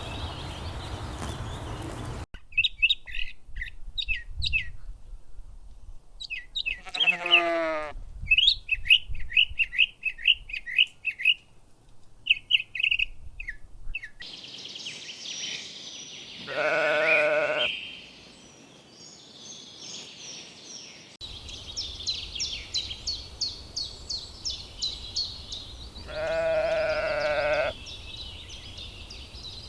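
Sheep bleating: three long calls spread through the clip, with birds chirping rapidly in between. The background noise changes abruptly a few times where shots are cut together.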